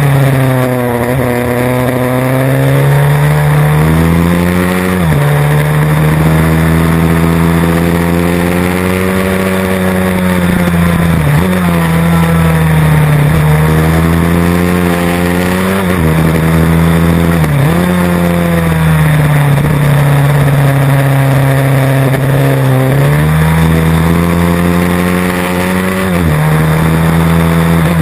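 Pit bike engine running hard through a lap, its pitch climbing and falling with the throttle, with a sudden drop in pitch every five or six seconds as it shifts or comes off the throttle.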